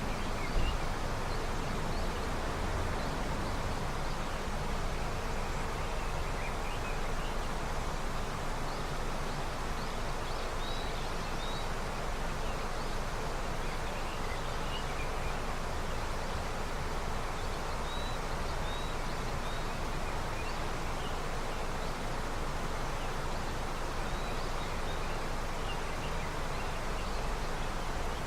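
River running steadily, swollen with early snowmelt water. A few faint high bird chirps come through now and then.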